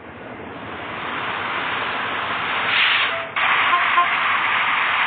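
A steady, dense hiss like spraying water or steam. It swells over the first three seconds, cuts off abruptly a little past three seconds in, then starts again straight away.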